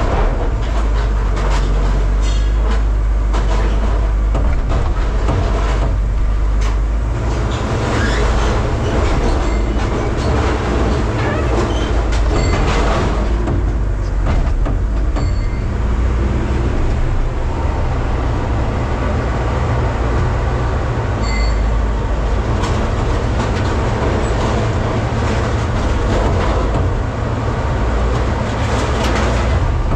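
Scrap metal baler running: a heavy, steady machine drone with irregular metal clanks, creaks and scraping throughout as it works on the scrap.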